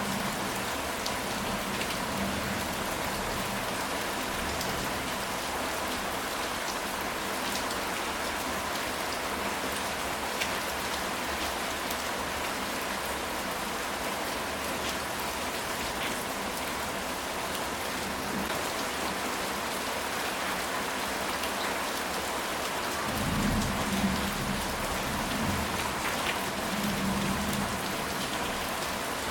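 Steady rain falling on a ceramic tile roof, an even hiss dotted with individual drop ticks. From about 23 seconds in, a low rumble of thunder swells under the rain for a few seconds.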